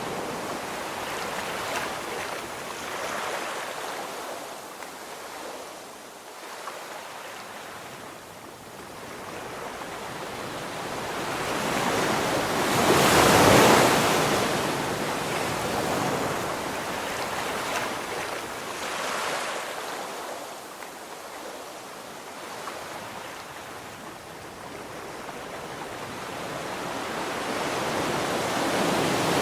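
Ocean surf breaking on a beach: a steady wash of water that swells and ebbs, with the biggest wave crashing about halfway through.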